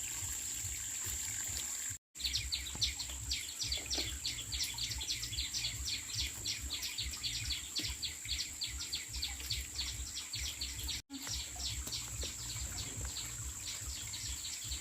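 Fast, evenly repeated high chirps, several a second, over a steady high-pitched hum and a low rumble. The sound cuts out for an instant twice.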